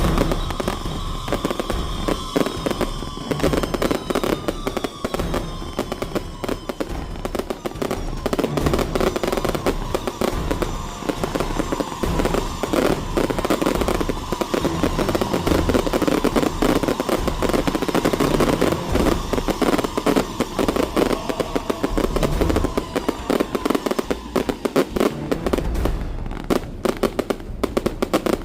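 Firecrackers and fireworks going off continuously in a dense, rapid crackle of bangs, with thin whistling tones sliding down in pitch through the first half.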